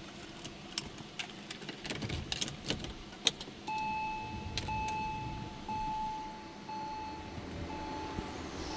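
Keys jangling and clicking in a Porsche 911 (996) 40th Anniversary, then, from about four seconds in, a short dashboard warning chime repeating about once a second.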